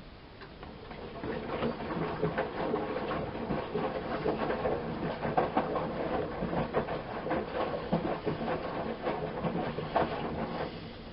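Miele Softtronic W 204 washing machine's drum turning during the wash, its motor humming under the irregular slap and splash of wet laundry and water tumbling. The turn starts about a second in and stops near the end.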